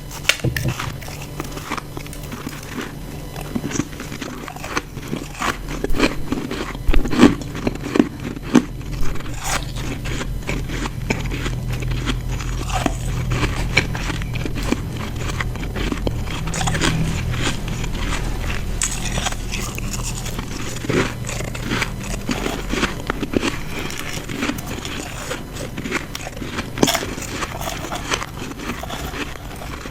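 Close-miked crunching of ice chunks being bitten and chewed: dense, irregular cracks and crackles, with the loudest bites in a cluster a quarter of the way in.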